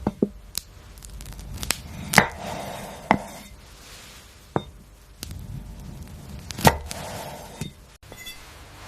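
Knife cutting through crisp raw vegetables: a series of sharp snaps and crunches, the loudest about two seconds in and again near seven seconds, each followed by a short crackly crunch.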